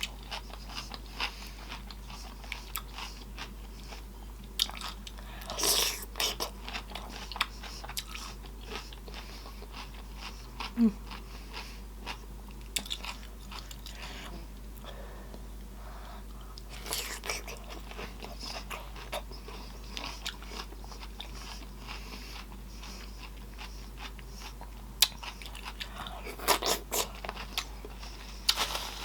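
Close-miked eating: chewing and wet lip-smacking with many small mouth clicks, and a few louder bites, about 6, 17 and 27 seconds in.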